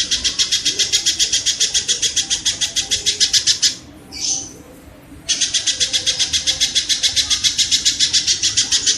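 Tengkek (kingfisher) giving a fast, harsh rattling trill of about seven notes a second. It breaks off for about a second and a half near the middle, where a single short high note sounds, then starts again.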